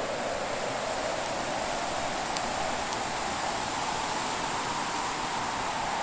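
Wood fire burning with a steady hiss and a few faint pops.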